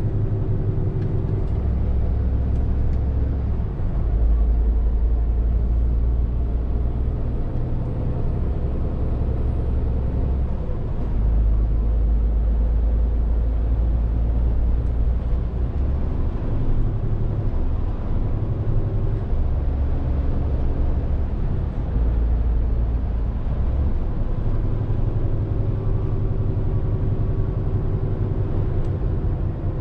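Scania R450 lorry's 13-litre straight-six diesel engine running while the truck is driven, along with road noise. The low engine note shifts in steps every few seconds as throttle and gears change.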